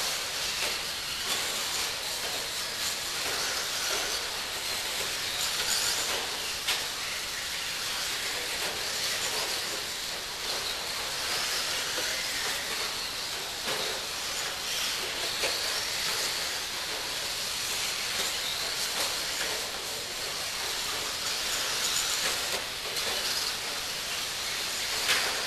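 Several electric 1/10-scale RC stadium trucks, among them a vintage Kyosho Pro-XRT, racing round a track: a steady hiss of motors and tyres with a few sharp knocks.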